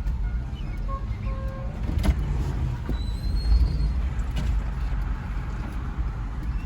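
Car engine idling, a steady low rumble heard from inside the cabin, with a single click about two seconds in.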